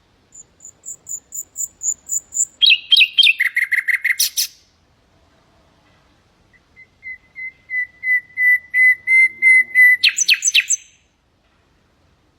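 Common nightingale singing two phrases. Each opens with a run of repeated whistled notes that grow steadily louder, then breaks into a fast, loud trill. The first phrase's repeated notes are high-pitched; the second's are lower.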